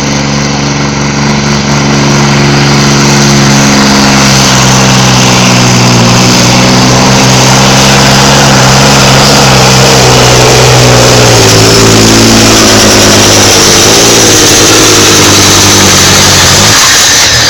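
Modified pulling tractor's 2,000-horsepower diesel engine running flat out through a pull, very loud and steady. About two-thirds of the way through, its pitch steps down and then wavers as the load of the sled builds. Near the end the note drops away as the run finishes.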